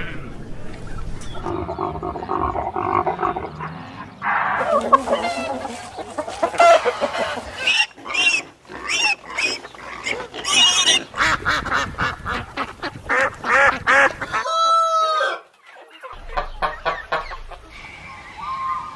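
A run of farm animal calls, one different sound after another, with fowl calls such as chicken clucking among them. A drawn-out wavering call comes about three quarters of the way through.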